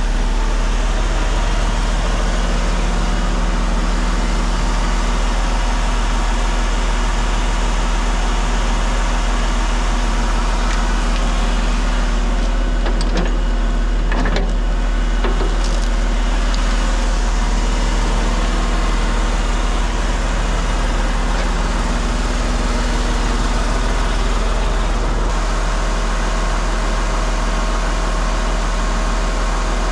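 Heavy truck's diesel engine running steadily, with a deep, even hum and a few brief clicks about halfway through.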